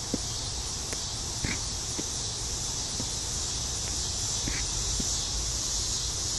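Steady chorus of insects such as crickets, a continuous high shrill hum that does not let up, over a low rumble, with a few faint short chirps.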